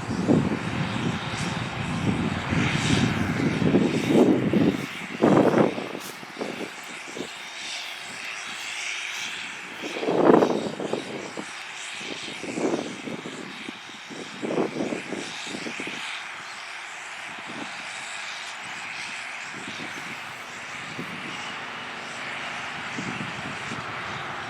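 John Deere 8300 tractor's six-cylinder diesel engine running under load while cultivating. It is loud for about the first five seconds, then fainter and steady, with a few short surges in between.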